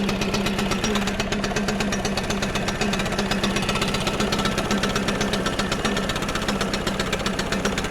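Gas leaf blower engine running steadily at idle, with a fast, even ticking over a steady engine tone.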